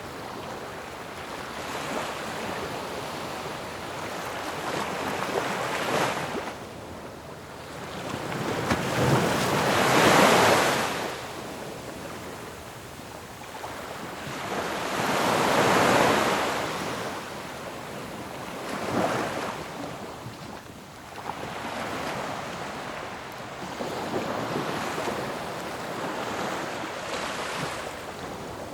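Ocean waves breaking on a shore in a continuous hiss that swells and falls with each wave, the biggest breakers about ten and sixteen seconds in.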